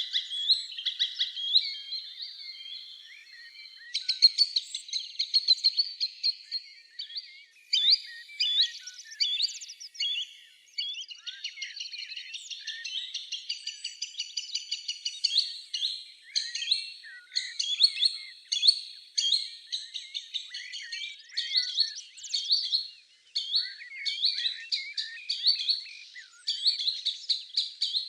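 Songbirds singing in a dense chorus, with quick chirps and fast trills overlapping the whole time.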